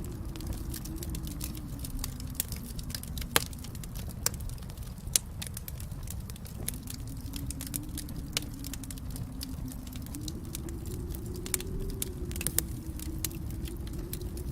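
Wood fire burning in a fireplace: a steady low rumble of flame with constant small crackles and a few louder pops in the first half.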